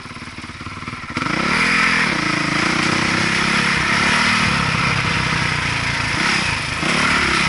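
Motocross dirt bike engine revving, its pitch rising and falling with the throttle. It becomes loud about a second in.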